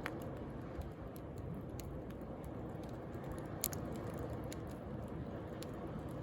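Wood fire crackling and popping with scattered sharp snaps, one louder pop a little after halfway, over the steady wash of sea waves.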